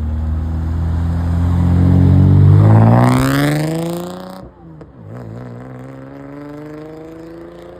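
A car accelerating hard away, its engine revving up steadily to a loud peak. About halfway it drops off sharply at a gear change, then pulls again at lower revs, quieter as it moves off.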